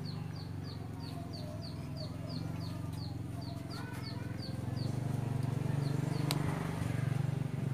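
A bird, chick-like, peeping over and over in short falling chirps, about three a second, which stop about four and a half seconds in. A steady low hum runs underneath and grows louder in the second half, and there is a single sharp click about six seconds in.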